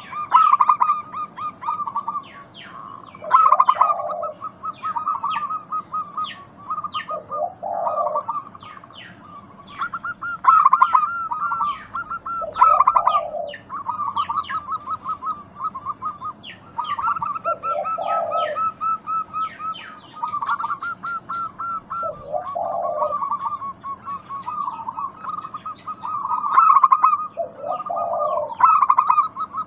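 Zebra doves cooing in long runs of quick repeated notes, with a lower coo phrase about every four to five seconds, while small birds chirp over them.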